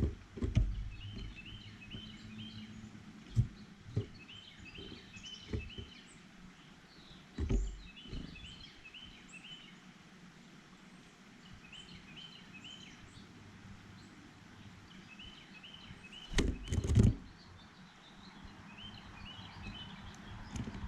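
Small birds at a feeder chirping in quick runs of three or four short notes, repeating every few seconds, with sharp knocks and thumps close by, the loudest a cluster near the end.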